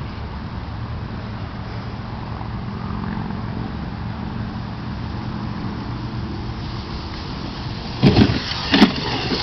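Dirt bike engine running steadily, heard at a distance, with two short loud bursts near the end.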